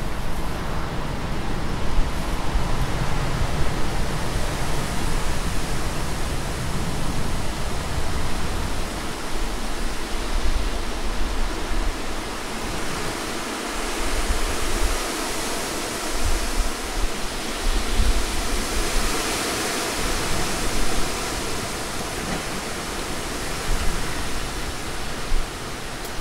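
Steady rush of sea surf and wind, with gusts of wind rumbling unevenly on the microphone.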